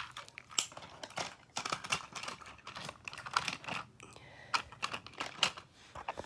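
Irregular light clicks and clacks of hard plastic toy train pieces, several a second.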